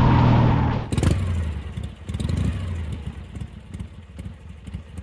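Motorcycle engine running hard under acceleration. About a second in there is a sharp knock, after which the engine sound drops to a quieter, uneven rumble.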